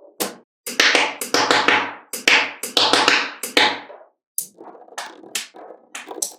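Small magnetic balls clicking and snapping against one another. A dense clattering run of clicks lasts for the first few seconds, then scattered single clicks follow.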